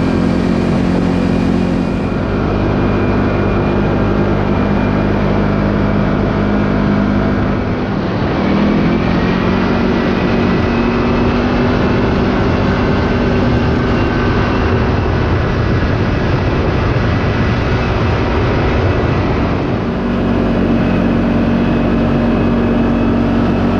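Side-by-side UTV engine running while driving, with a steady drone whose revs dip about eight seconds in and then climb back up.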